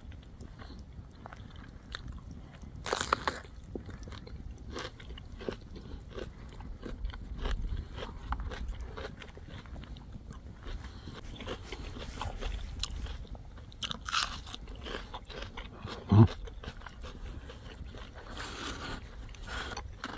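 A person biting and chewing food close to the microphone, with repeated crunching and crackly clicks. A brief low hum about three-quarters of the way through is the loudest moment.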